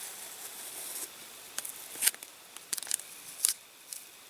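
Light, sharp clicks and ticks of small objects being handled, about half a dozen, after a faint hiss in the first second.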